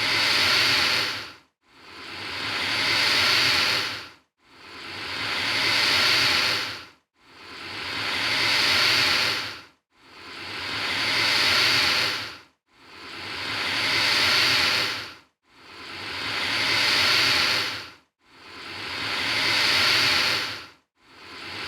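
Alligator hissing: the same breathy hiss repeats about every three seconds, eight times, each one swelling and then cutting off abruptly.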